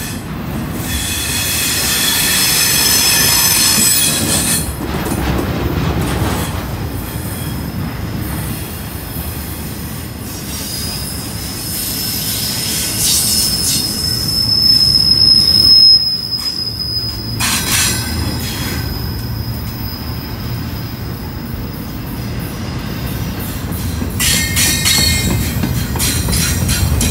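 Intermodal freight train rolling past, its steel wheels giving a steady low rumble on the rails with high-pitched wheel squeal that comes and goes. A cluster of squealing tones comes in the first few seconds. A single long, high squeal builds from about eleven seconds, is loudest near sixteen and cuts off suddenly. More squealing comes near the end.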